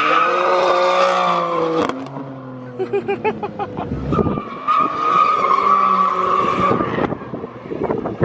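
Twin-turbo V10 supercar engine revving high, then tyres squealing and skidding in a long steady screech under power, as in donuts. The sound changes abruptly a few times, as between edited clips.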